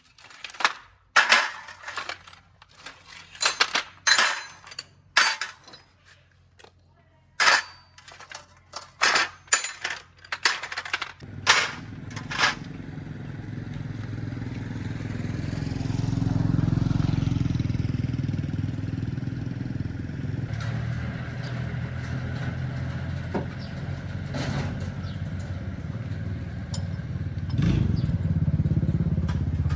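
A string of sharp knocks and clanks, then about eleven seconds in an engine starts and runs steadily, its sound swelling for a few seconds before settling.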